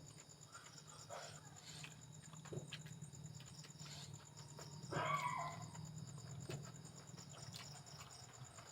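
Chewing and mouth sounds of someone eating: scattered small clicks and smacks, with a louder short sound about five seconds in, over a faint steady low hum.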